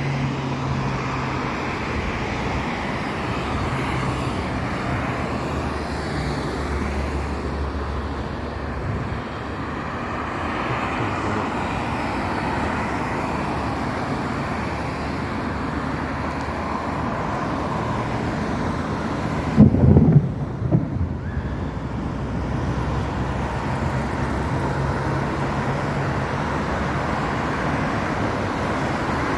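Steady city traffic noise with the low hum of passing vehicle engines. About two-thirds of the way through comes a brief loud low burst lasting a second or so.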